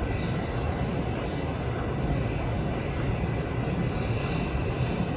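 Steady rumble of a passenger train rolling along the rails, heard from aboard the moving train.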